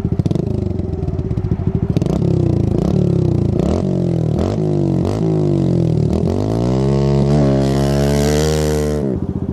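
Small motorcycle engine idling, then revving up and falling back several times, followed by a long high rev held for about two seconds that drops abruptly back to idle near the end.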